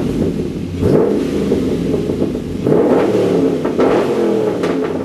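HSV Clubsport R8's V8 engine being revved three times through its newly fitted aftermarket mufflers, each blip rising sharply in pitch and then falling back towards idle.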